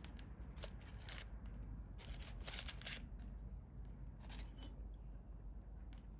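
Hardwood fire and embers crackling quietly, with scattered small ticks and pops and a longer spell of crackle about two seconds in.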